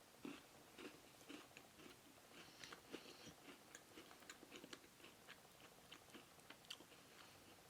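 Faint chewing and crunching of a white-fudge-covered Oreo cookie, a run of small irregular crunches.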